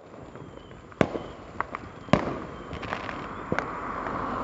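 Fireworks going off: two loud sharp bangs about a second apart, with several fainter pops between and after them.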